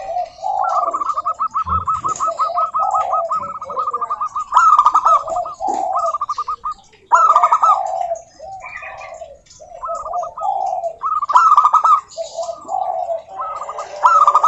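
Zebra doves (perkutut) singing their rapid, staccato trilled cooing phrases, repeated every few seconds. The high trills overlap lower, mellower coos, as if more than one bird is calling.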